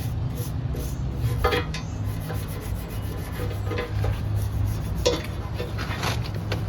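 Scrubbing or brushing strokes on a park bench end piece, a rapid, uneven back-and-forth scraping of about two to three strokes a second over a steady low rumble.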